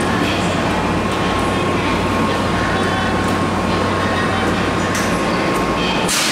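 Keikyu 1000-series electric train standing at an underground platform, a steady hum from its onboard equipment over the platform's background noise. About six seconds in, a short burst of hissing air stands out and fades away.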